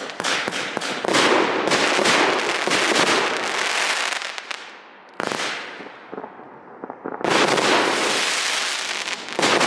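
An 80-shot 1.3G fireworks display cake firing: a quick string of sharp shots, then loud bursts with dense crackling noise, a short lull about halfway through broken by one burst that fades away, and more loud bursts near the end.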